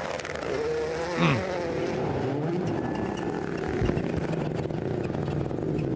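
Rally car engine revving up and down through the gears. About a second in, one engine note drops sharply in pitch as a car passes close.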